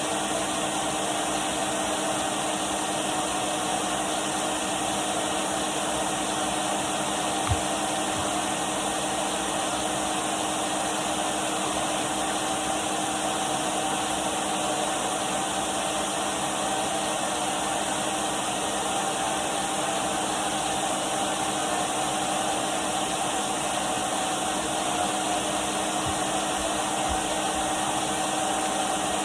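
Numatic Henry cylinder vacuum cleaner running steadily, a constant motor hum and airflow hiss, with one brief knock about a third of the way in.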